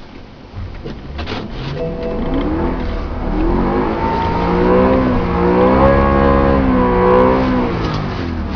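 BMW E90 M3's V8 engine revving up, its pitch climbing, wavering up and down at the top, then dropping back near the end.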